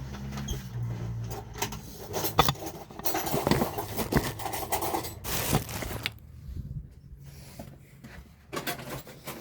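Clinks, clicks and scrapes of dishes and cutlery being handled, such as forks picked out and set on plates. A low hum fades out after about the first second.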